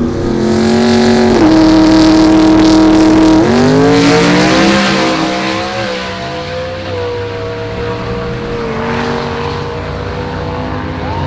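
Drag racing car engine held at steady high revs for a few seconds with one step up in pitch. About three and a half seconds in it rises sharply as the car accelerates away, then runs on as a long, slowly falling tone that grows quieter.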